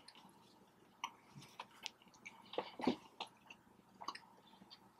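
Soft eating sounds of a person close to the microphone: chewing with scattered wet mouth clicks and smacks.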